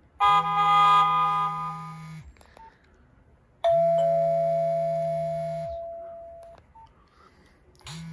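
Nokia 1112 mobile phone playing two short electronic alert tones through its small loudspeaker. First comes a chord-like chime lasting about two seconds. After a pause a single ringing tone sounds for about three seconds and slowly fades, with a low hum under each tone.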